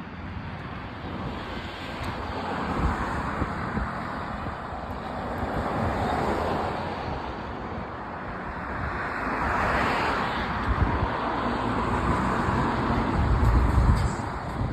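Outdoor rushing noise that swells and fades every few seconds, with wind buffeting the microphone in low rumbles, strongest near the end.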